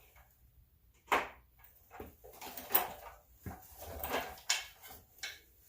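Metal hand tools being handled: a string of short clicks and knocks, loudest about a second in, as a socket wrench is fitted to the brake caliper bolts.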